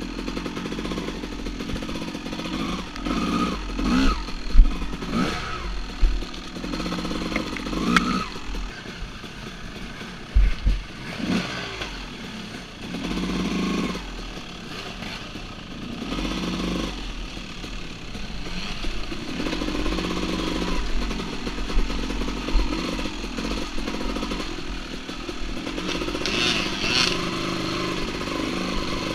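Dirt bike engine revving up and down in repeated bursts of throttle while riding through a rocky creek, with a few sharp knocks and thumps, the loudest about four seconds and ten seconds in.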